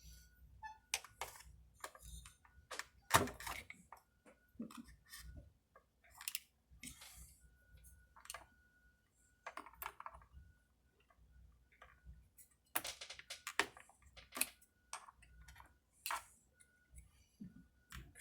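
Scattered light clicks and taps of small chainsaw parts being handled while the carburetor is fitted during reassembly, with a few louder knocks about three seconds in and around thirteen seconds.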